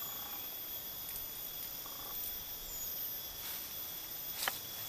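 A steady, high-pitched insect drone over an outdoor background hiss, with one sharp click about four and a half seconds in.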